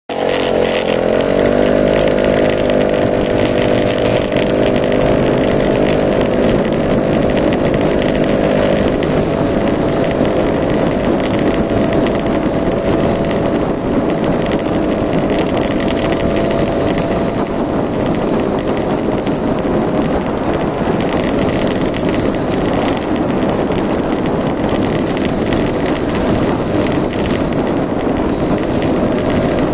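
Yamaha Majesty S 155 scooter's single-cylinder four-stroke engine revving up as it pulls away, then holding steady revs under its automatic transmission while riding. After about nine seconds a steady rushing noise takes over the engine tone.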